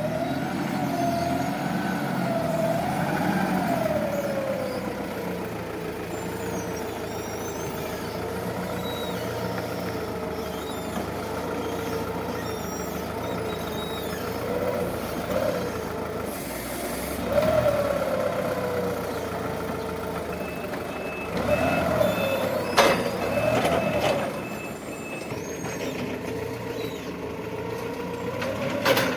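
Forklift at work: its motor runs with a whine that rises and falls in pitch as it drives and lifts. A reversing beeper sounds for a few seconds past the middle, and there are a couple of sharp knocks near the end.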